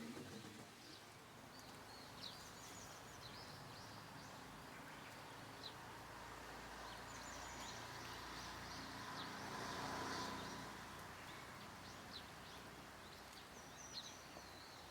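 Faint rural outdoor ambience: small birds chirp repeatedly over a steady low hiss, which swells briefly about ten seconds in.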